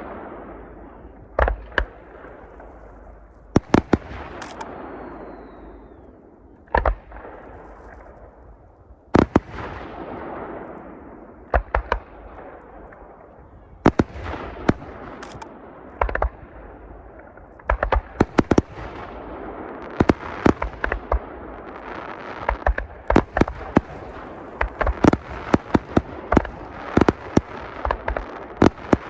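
Aerial fireworks bursting: a run of sharp bangs over a continuous hiss and crackle. The bangs come sparsely at first, then thick and fast from a little past halfway, as in a finale barrage.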